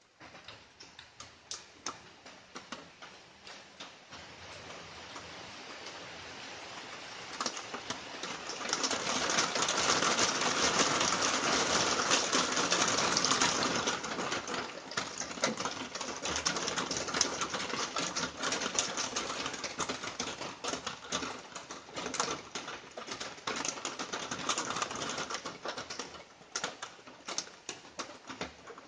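Light rain pattering, a dense ticking of drops over a soft hiss, growing heavier about eight seconds in and easing off through the second half.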